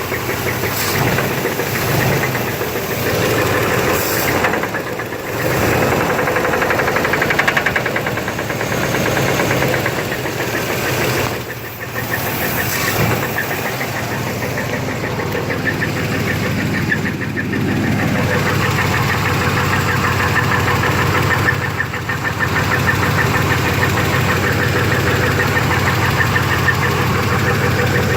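V6 engine of a 1991 Chevy S10 running with a knocking noise, its level dipping briefly a few times. The owner does not know whether the knock comes from the flywheel or the engine itself.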